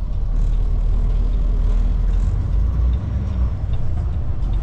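Semi truck's diesel engine and road noise heard from inside the cab while driving: a steady low rumble.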